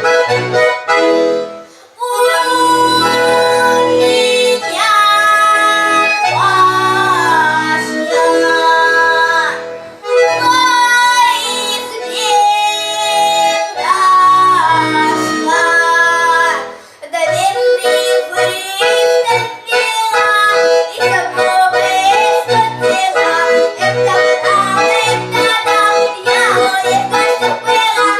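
Accordion playing a piece: sustained melody over held chords, phrased with short breaks, then a steady rhythmic bass accompaniment under the melody in the second half.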